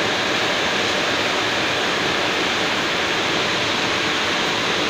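Heavy rain pouring down in a thunderstorm, a steady even hiss.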